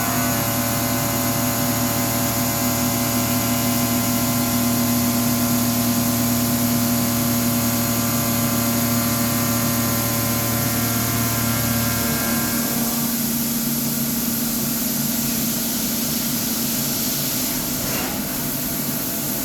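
Haas UMC-500 five-axis CNC mill running a cut: a steady machine drone with several held tones over a low hum. About twelve seconds in the low hum drops away, and near the end a tone sweeps upward.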